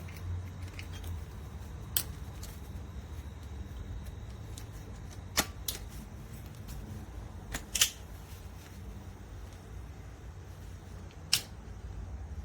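A handful of short sharp clicks, about six, scattered over a low steady hum.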